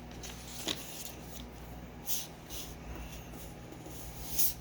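A sheet of paper being folded and creased by hand: a sharp tap under a second in, then several short crinkling rustles.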